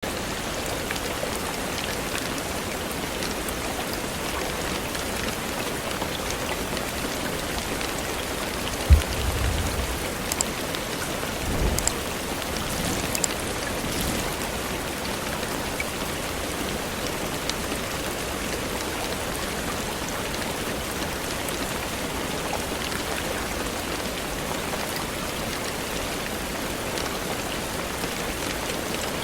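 Heavy rain falling steadily, an even hiss of drops. About nine seconds in a sharp low thud with a short rumble, and another brief low rumble a few seconds later.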